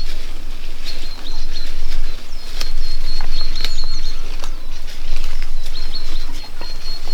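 Rain ambience with scattered sharp drips ticking, under a high, near-continuous chirping tone broken by short gaps.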